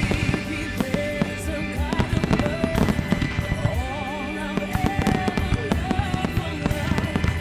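Fireworks going off in quick succession, many sharp bangs and crackles, over the music played for the pyromusical display.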